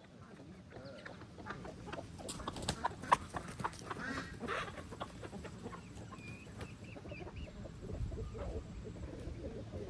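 Chickens clucking and calling while they feed, with scattered sharp taps; the loudest tap comes about three seconds in.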